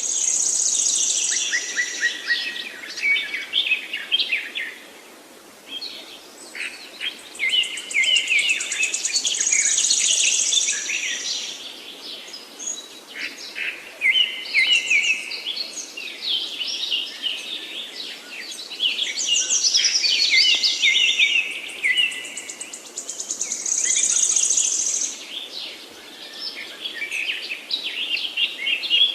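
Several songbirds singing at once: a dense run of rapid chirps and trills, with loud high-pitched buzzy phrases returning every four or five seconds.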